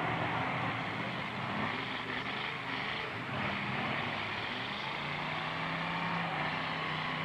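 Demolition derby truck engines running and revving, their pitch shifting up and down over a dense, steady wash of engine noise.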